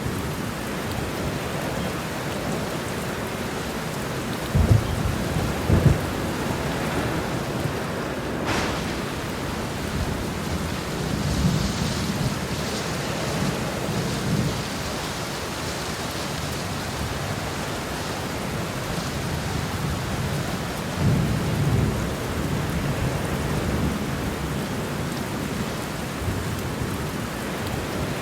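Heavy, steady rain with thunder: a couple of sharp cracks about five seconds in, then low rolling rumbles a few seconds later and again about twenty seconds in.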